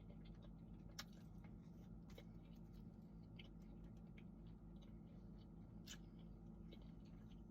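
Near silence with faint chewing and a few soft mouth clicks, the clearest about a second in, two seconds in and near six seconds, over a low steady hum.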